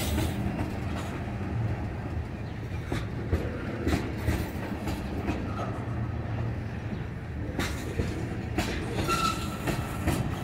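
Freight train of tank cars and boxcars rolling past close by: a steady low rumble of steel wheels on rail, with scattered sharp clicks and knocks as the wheels cross rail joints.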